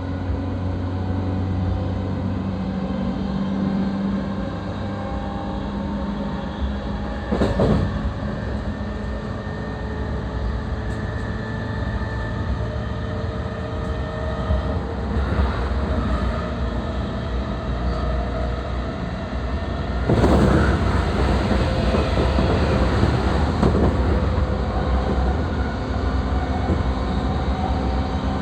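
E233-3000 series electric train running, heard inside the car: steady rumble of wheels on rail with a faint electric motor hum. There is a brief loud rush about seven seconds in, and a louder, noisier stretch from about twenty seconds in.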